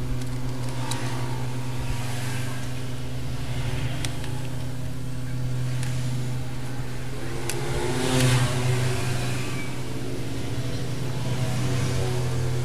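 A steady low mechanical hum, with scattered faint clicks and small taps, and a louder rustle or scrape about eight seconds in.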